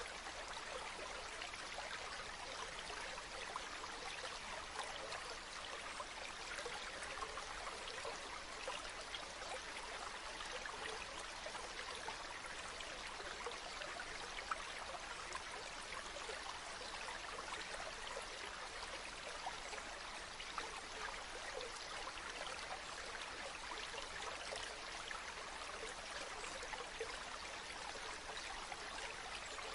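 Running water flowing steadily, an even rushing hiss flecked with small splashes and droplets.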